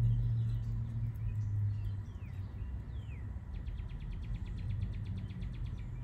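Birds calling over a low steady hum: two short falling whistles about two and three seconds in, then a fast, even run of high chirps through the second half.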